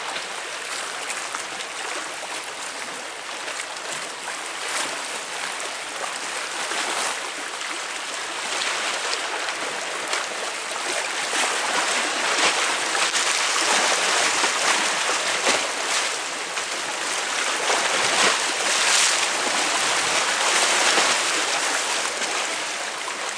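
Sea waves breaking and splashing against concrete tetrapods, a continuous wash of water with small splashes, swelling louder about halfway through.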